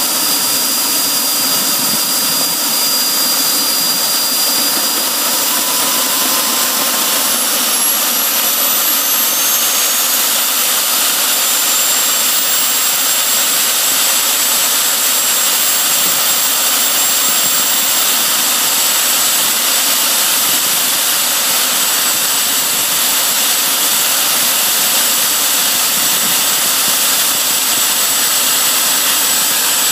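Jet engine running continuously, a loud rushing roar with a high turbine whine that climbs in pitch from about five seconds in to about thirteen seconds in as the engine spools up, then holds steady.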